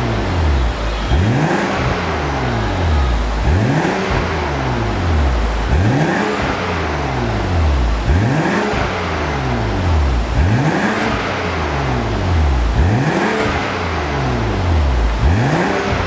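BMW 640i's turbocharged straight-six revved through an aftermarket dual valve exhaust, the revs rising and dropping back about every two seconds, about seven times.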